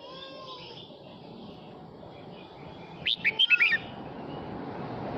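Male red-whiskered bulbul singing: one short burst of quick, warbled whistled notes about three seconds in, with faint notes at the start. A low rumbling noise grows louder near the end.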